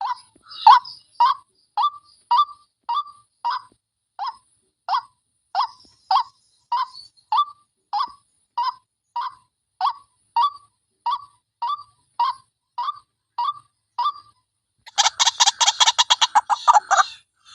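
White-breasted waterhen calling a short, harsh note over and over, about one and a half calls a second. Near the end comes a quick, crowded burst of overlapping calls.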